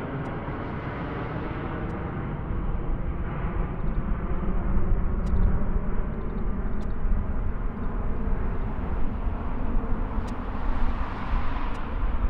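Rumble of jet airliner engines, a steady noisy roar that grows louder about three seconds in.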